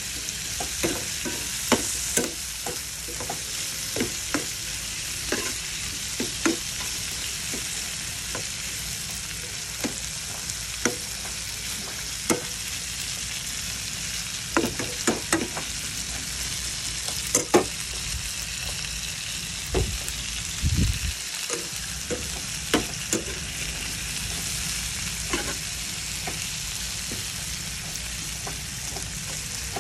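Shell-on garlic shrimp sizzling steadily in a nonstick frying pan, with irregular clacks and scrapes of a slotted spatula as they are stirred and turned. A low thump comes a little past two-thirds of the way in.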